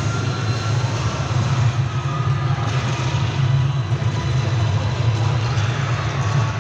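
Steady low engine drone with a constant rushing noise over it, unchanging throughout.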